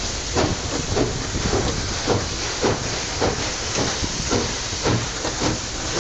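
A long freight train of open-top wagons rolling past, a steady rushing noise with regular short beats about twice a second.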